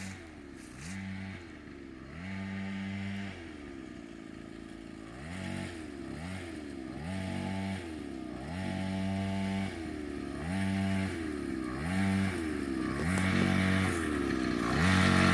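Child's dirt bike engine revving up and easing off over and over, about ten times, growing steadily louder as it comes closer.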